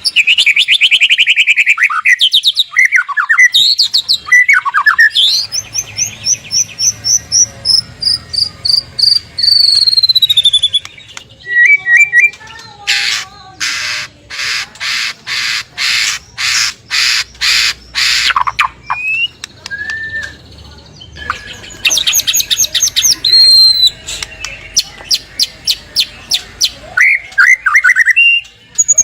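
White-rumped shama (murai batu) singing a loud, varied song. It opens with quick trills and a long falling run of whistled notes, has a stretch of harsh, evenly repeated notes about two a second in the middle, and ends with more rapid trills.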